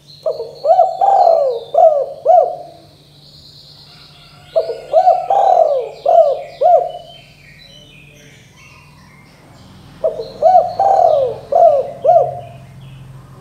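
Spotted dove cooing: three phrases of about five coos each, a few seconds apart. Small birds chirp faintly behind.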